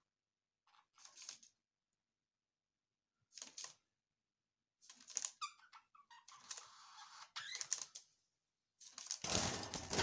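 Pet cockatiel making scattered soft clicks and squeaks in short bursts, then a louder rustling noise starting about nine seconds in.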